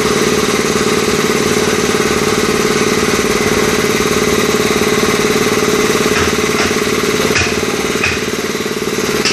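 A workshop machine's motor running steadily with a fast, even pulsing, with a few faint clicks about six to eight seconds in.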